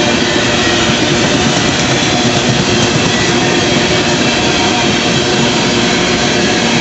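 Empty CSX coal cars rolling past at close range: a loud, steady noise of steel wheels running on the rails, with a faint steady whine over it.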